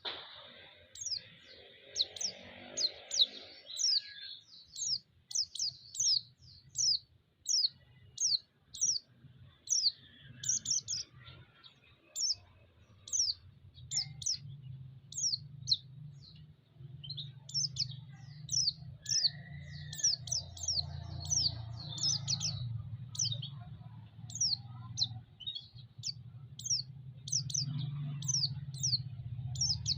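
White-eye (pleci) calling, used as a lure song: a long string of short, high, downward-slurred chirps, about one to two a second. A low steady rumble sits underneath from about halfway through.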